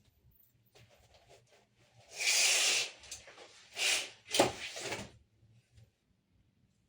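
Household handling noises: a rustling swish about two seconds in, a shorter swish, then a sharp knock followed by more rustling.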